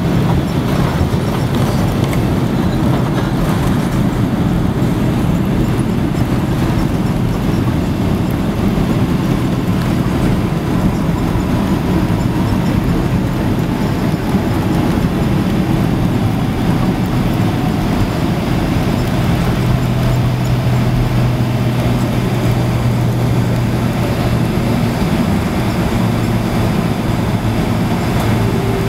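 Boeing 767-300ER jet heard from inside the cabin just after landing: a steady, loud rumble of engines and airframe, with an engine whine that falls slowly in pitch across the middle as the airliner slows down.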